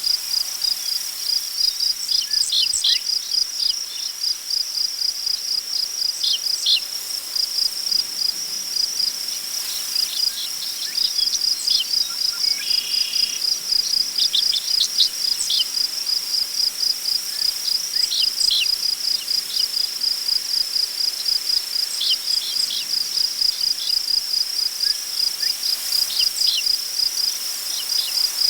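Crickets chirping in a continuous, rapid pulsing trill, with scattered short bird chirps above it and one brief buzzy bird call about halfway through. Soft wind rustles the prairie grass underneath.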